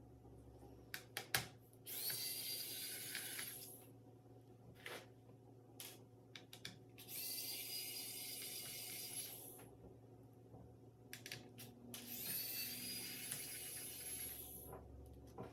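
Small electric screwdriver motor whirring in three bursts of about two to three seconds each, the pitch rising as each burst starts, with light clicks and taps of handling between them, typical of driving laptop case screws.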